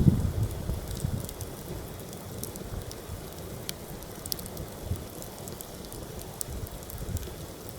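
Campfire crackling with scattered sharp pops, under heavy wind buffeting the microphone in low rumbling gusts. The loudest gust comes right at the start, and the wind then eases to a steadier rush.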